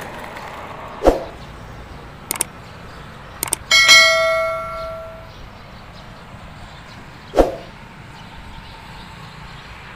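A few sharp knocks, then a single metallic clang that rings with a bell-like tone and fades over about a second and a half, followed by one more dull thud.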